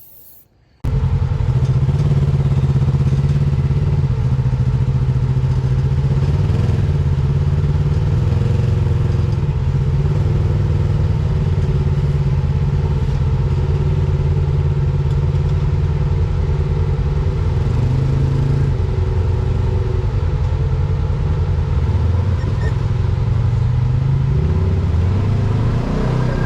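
Side-by-side UTV engine running steadily with small changes in pitch, cutting in suddenly about a second in.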